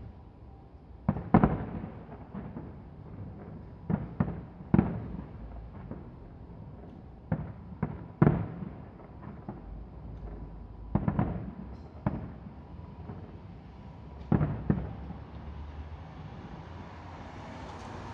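Fireworks bursting: sharp bangs in clusters of two or three every few seconds, each trailing off into a short rumble.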